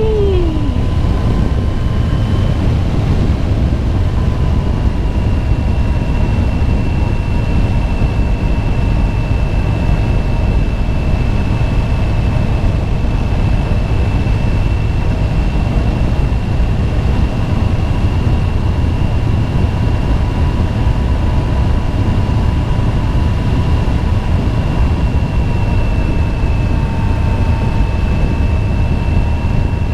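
Motorcycle cruising at a steady speed: an even rumble of engine and wind noise, with a faint steady whine.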